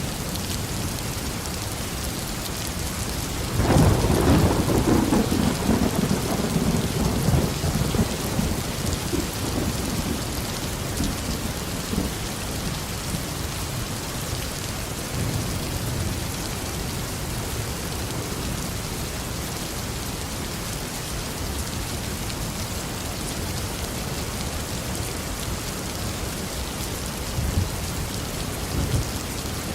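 Steady heavy rain falling, with a thunderclap about three and a half seconds in that rumbles for several seconds and fades away.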